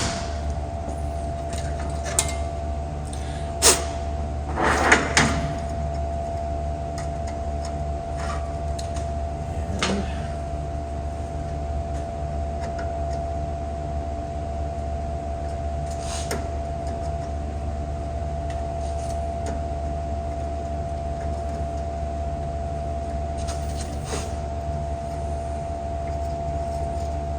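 A few sharp metal clicks and clinks of small window-regulator hardware being handled and fitted, most of them in the first five seconds, over a steady electrical hum in the shop.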